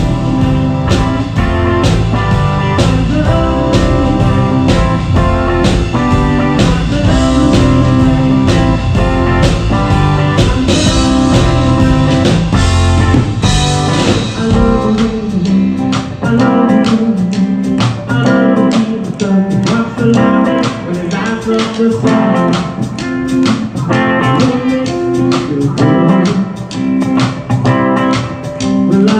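Live country-rock band playing, with electric guitar and a drum kit keeping a steady beat. The deep bass drops away about halfway through, leaving guitar and drums.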